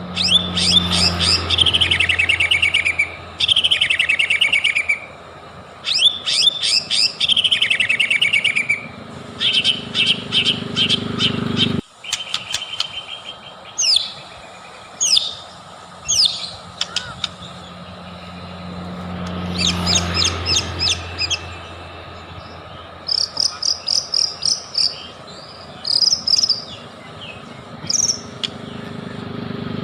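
White-rumped shama (murai batu) singing: phrases of rapid trilled and whistled notes, each a second or two long, separated by short pauses. A low hum comes and goes behind the song.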